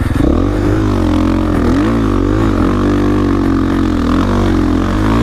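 The rider's 450cc dirt bike engine running under throttle, its pitch dipping and rising several times as the revs change.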